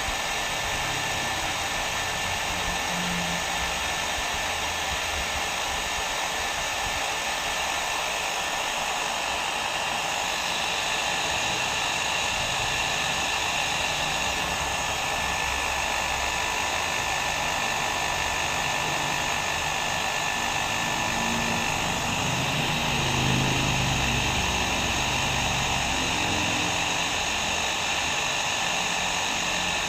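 Hair dryer blowing steadily: a constant, even rush of air with a faint motor whine, kept on without change as white noise for sleep.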